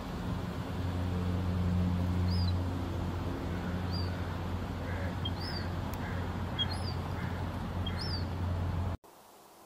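A bird giving short, high chirps about once a second, over a steady low hum. The sound drops away abruptly about nine seconds in, leaving only a faint background.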